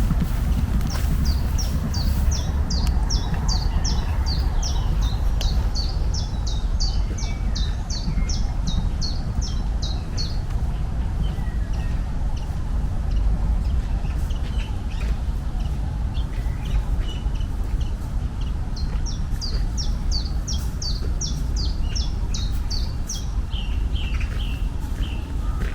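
A bird singing long runs of short, quick chirps at about three a second. One run lasts from about a second in to ten seconds and another comes near the end. A steady low rumble runs underneath.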